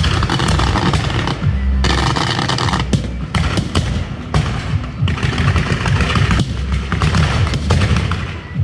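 Fireworks crackling in rapid strings, with bursts of hissing that start and stop every second or so, over music.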